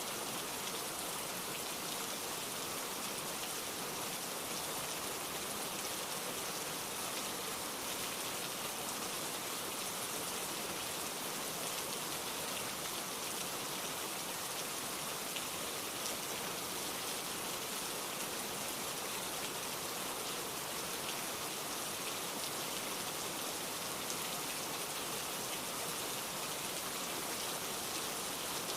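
Heavy, steady rain downpour falling on surfaces: a continuous even hiss with scattered drop ticks.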